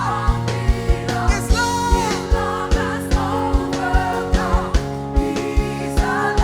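A worship band playing gospel music: a steady kick-drum beat under held keyboard chords, with a lead voice singing a gliding, ornamented melody.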